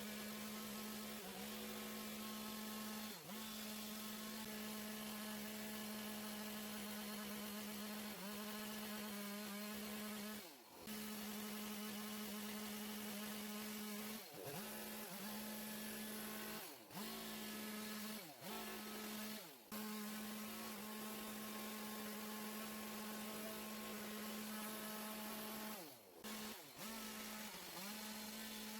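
Small two-stroke chainsaw, a Stihl MS 170, running at high revs while cutting into white oak. About a dozen times the engine speed briefly sags and picks back up, as the throttle eases or the chain bites into the hard wood.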